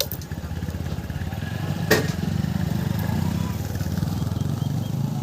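Hero Splendor motorcycle's single-cylinder four-stroke engine idling steadily, with a single sharp click about two seconds in.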